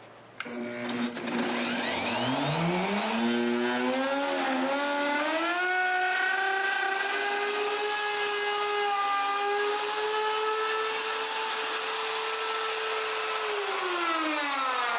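Wood router spinning up, its whine rising over several seconds, running at a steady high speed while routing out the openings for electrical boxes in a wooden shelf, then winding down near the end.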